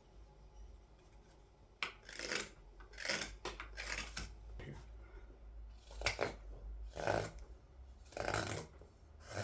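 Carving blade shaving green wood while hollowing a wooden scoop: a series of short, irregular rasping cuts, starting about two seconds in.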